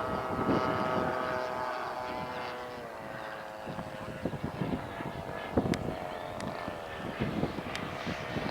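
Radio-controlled model airplane engine flying past and away, its tone dropping slightly in pitch and fading, with wind buffeting the microphone.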